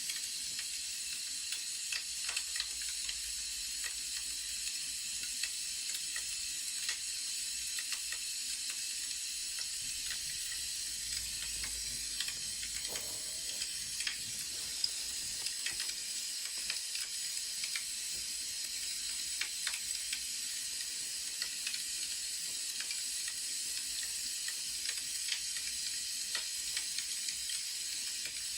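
Wood fire crackling: a steady hiss with scattered sharp pops and snaps at irregular intervals.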